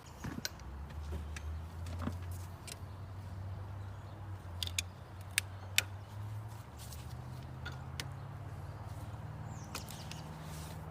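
A motor running with a low hum whose pitch creeps up in small steps over about ten seconds, with a few sharp clicks and taps over it.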